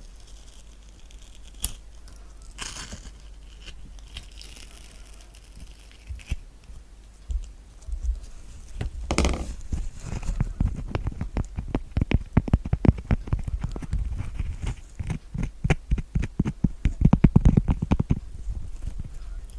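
Spoon scooping kiwi flesh, with a few soft scrapes and clicks, then from about halfway a fast run of close-miked tapping, many taps a second and louder than the scooping.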